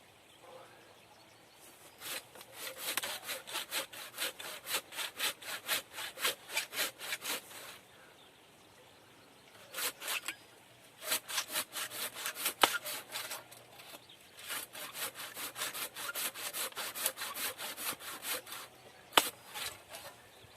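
Hand saw cutting through wood with quick, even back-and-forth strokes, in several bouts broken by short pauses.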